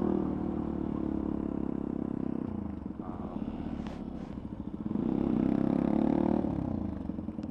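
Motorcycle engine running on the move. It eases off about two and a half seconds in, pulls harder and louder for a second or so around five seconds in, then eases off again.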